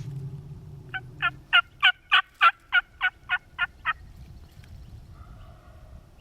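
Turkey yelping: a run of about eleven evenly spaced yelps, roughly three a second, each note breaking from a higher to a lower pitch, growing louder then trailing off.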